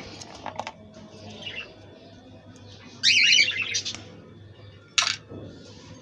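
Budgerigars chirping and chattering, with a loud burst of fast warbling about three seconds in and softer chirps around it. A sharp click sounds about five seconds in.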